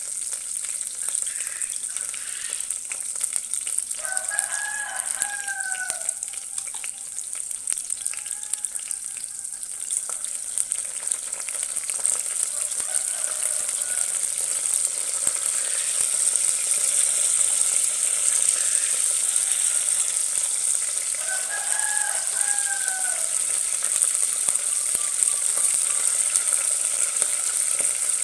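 Shallots frying in oil in a pot with a steady sizzle that gets louder about halfway through as raw prawns are spooned in. A rooster crows twice, about four seconds in and again about twenty-one seconds in.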